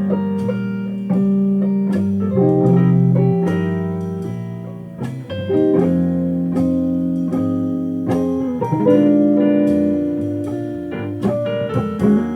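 Instrumental jazz on guitar, chords and melody notes ringing and changing every second or two.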